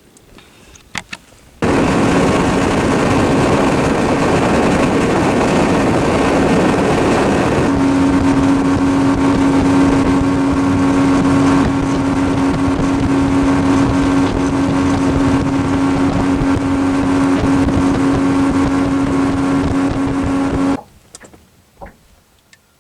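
A motorboat engine running steadily, with a steady hum settling in about eight seconds in. It starts suddenly about two seconds in and cuts off suddenly near the end.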